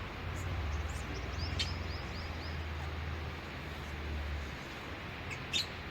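African lovebirds chirping: a run of short, high chirps in the first second and a half and a louder chirp near the end, over a low hum that stops about four and a half seconds in.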